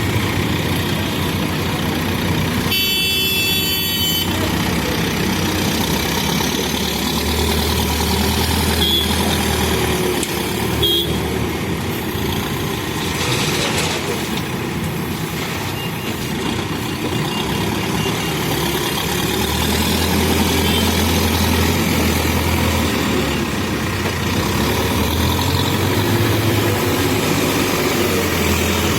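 Diesel engine of a Terex backhoe loader running steadily and rising in speed several times as the machine works, then settling back. A short high-pitched toot sounds about three seconds in.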